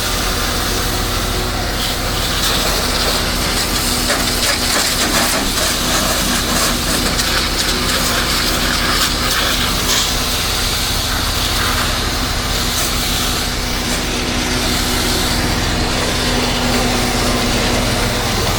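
Pressure washer in use: a steady hiss of water spray against the house, over the constant hum of the machine's engine.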